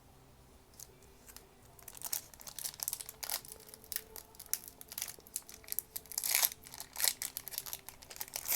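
A Magic: The Gathering booster-pack wrapper crinkling and tearing as it is opened, in a dense run of sharp crackles that starts about two seconds in.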